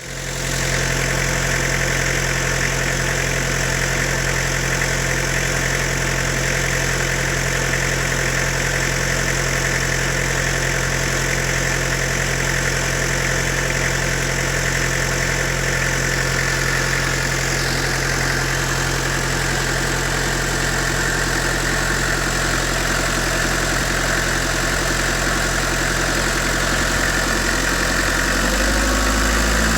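Toyota 3L 2.8 litre four-cylinder diesel engine idling steadily and smoothly, then revving up near the end.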